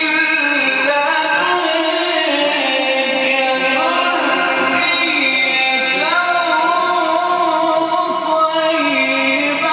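A man reciting the Quran in a melodic, ornamented style, drawing out long held notes that step and waver in pitch.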